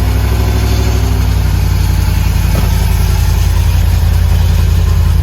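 Turbocharged Ram 1500's Hemi V8 idling loudly and steadily with a deep rumble, just after starting up.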